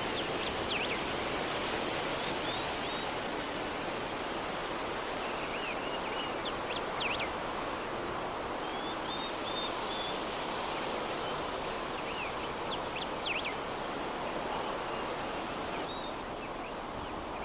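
Steady soft breeze with small birds chirping: every few seconds a quick cluster of high sweeping notes, and between them short runs of flat high chirps.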